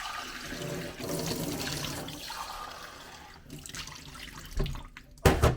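Water running from a tap into a sink, fading away after about three seconds, then two knocks near the end, the second a loud thump.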